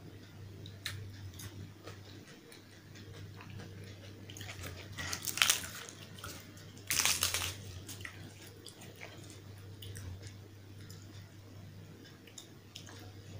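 Close-miked eating of fried puri with potato curry: soft wet chewing and small clicks, with two louder crisp crunching bursts, about five and seven seconds in.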